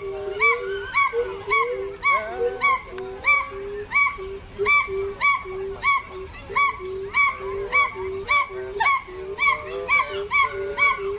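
A bird calling over and over in a quick, even rhythm of short arched calls, about three a second, over a lower tone that steps up and down in pitch.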